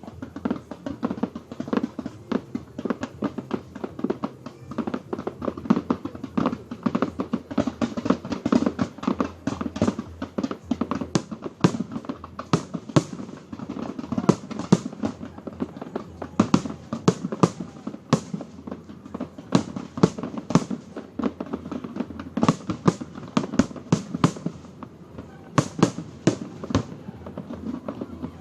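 Fireworks display: a rapid, continuous barrage of overlapping bangs and crackles, several a second, growing denser from about a third of the way in.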